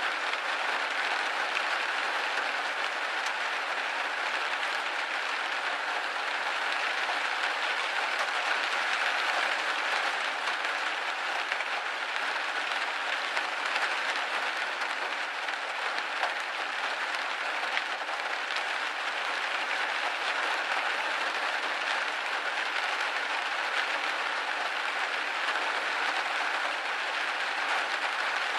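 Steady rain pattering on a window pane: an even hiss of dense drops with faint individual ticks, unchanging throughout.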